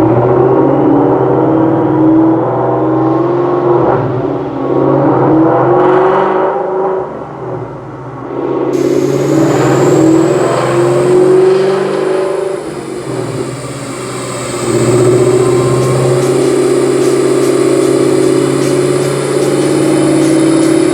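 Whipple-supercharged Ford Coyote 5.0 V8 in a Mustang GT running loud under load on a dyno, easing off twice along the way. A high whine rises and falls over it from about nine seconds in.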